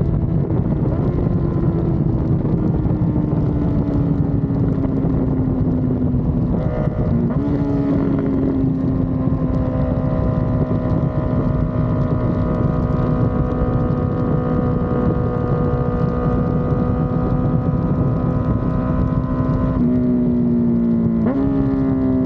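Honda CBR650R inline-four running through a Dominator aftermarket exhaust while riding, its note sinking slowly as the bike eases off for the first several seconds. About seven seconds in the pitch steps up and then holds steady at cruise. It steps up twice more near the end before sinking again, over a constant rush of wind on the microphone.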